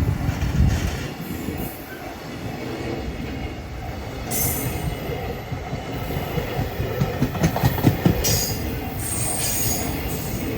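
Freight train rolling past, its wagon wheels clacking over rail joints, with brief high-pitched wheel squeals about four and eight seconds in.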